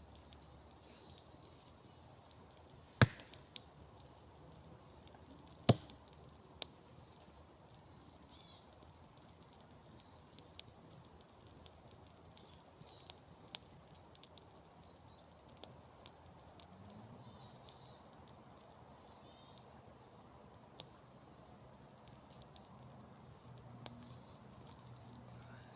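Two sharp cracks of firewood being chopped or broken, about three seconds apart, followed by a few faint ticks. Faint small-bird chirps run underneath.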